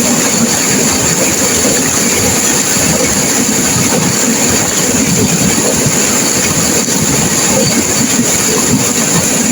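Turbulent river water rushing and crashing, a loud, steady wash of noise with no let-up.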